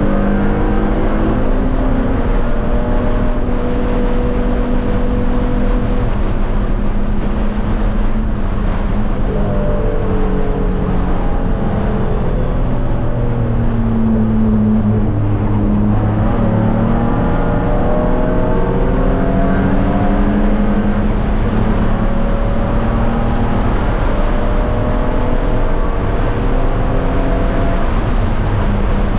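A race car's engine under hard use, heard from inside its stripped, caged cabin, with road and wind noise. The engine note climbs through the revs and drops back again and again as the car accelerates, shifts and lifts.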